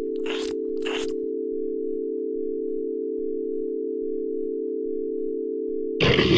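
A steady, unchanging electronic tone like a telephone dial tone, with two short faint hissing bursts in the first second. Near the end a louder, noisy sound cuts in over it.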